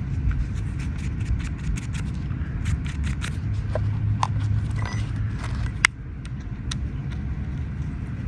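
Small clicks and taps of the stopped mini battery chainsaw's parts being handled and its cover worked on, with one sharp click a little before six seconds in, over a steady low rumble.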